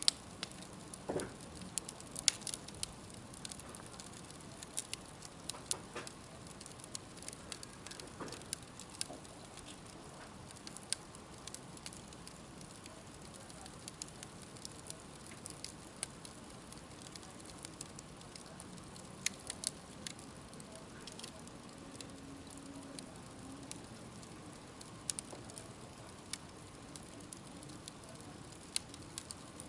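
Wood campfire burning: a steady low hiss with irregular sharp crackles and pops from the burning wood, a few louder snaps among them.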